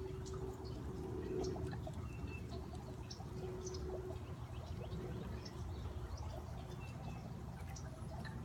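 Small songbirds chirping in short, scattered calls over the steady trickle of a backyard fountain.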